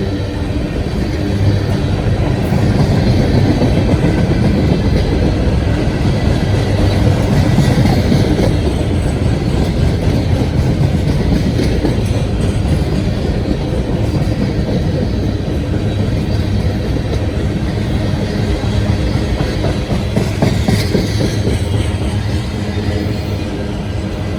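Freight train rolling past: a steady rumble of steel wheels on the rails that swells about two seconds in and eases slightly near the end.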